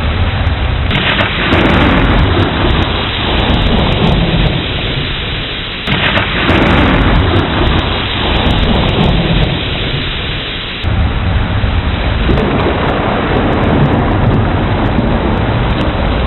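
Heavy rain falling steadily through a thunderstorm, with rolling thunder. Rumbles swell suddenly about a second in, again about six seconds in and again about eleven seconds in, each fading over several seconds.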